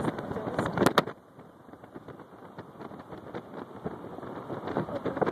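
A run of sharp knocks and clicks, the two loudest close together about a second in, then quieter low road noise inside a moving car with a few light clicks.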